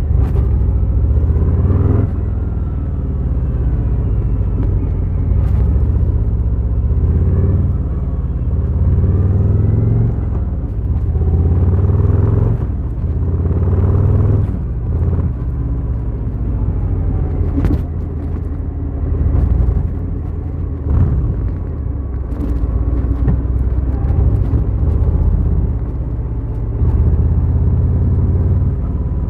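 Harley-Davidson Fat Boy's V-twin engine pulling the bike along, its low rumble rising and falling in pitch with throttle and gear changes, easing off briefly a few times.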